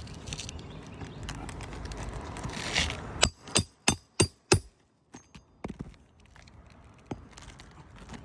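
Rustling and scraping on asphalt shingles, then five sharp metallic strikes about three a second and a few fainter knocks: a hammer driving a roof snake (shingle nail ripper) to shear the roofing nails under a split shingle.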